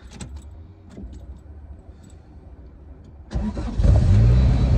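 Turbocharged Acura Integra engine starting about three seconds in, catching almost at once and settling into a steady, loud idle, now that its broken fuel-pump wire has been replaced.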